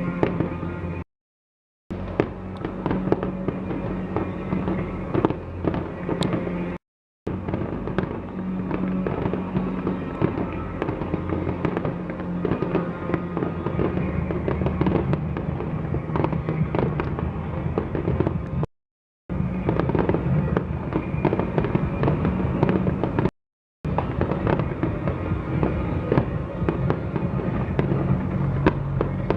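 Fireworks display: a dense, continuous run of bangs and crackles over music with held tones. The sound cuts out to silence four times, each for under a second.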